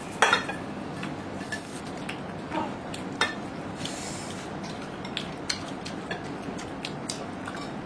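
Cutlery clinking and scraping against plates during a meal: scattered sharp clinks over a steady background hum.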